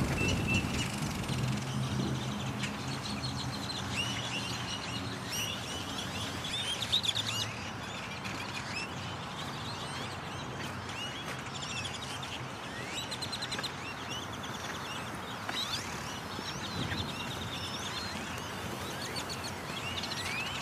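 A huge flock of birds calling all at once, with many overlapping chirps and rising whistles. A low steady hum lies under the calls for the first few seconds.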